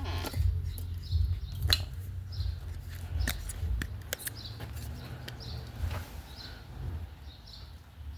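A small bird chirping again and again, short high chirps about once a second, over a low rumble, with a few sharp clicks and knocks.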